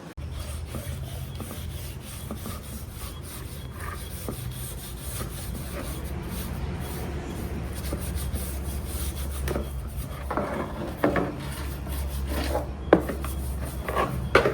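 Rubbing and scraping, as of hand work on a metal or wooden part, over a steady low hum, with two sharp knocks near the end.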